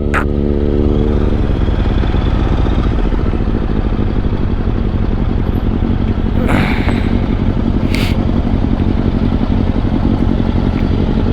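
Yamaha Stratoliner's V-twin engine running steadily, a continuous low rumble, with two brief bursts of noise in the second half.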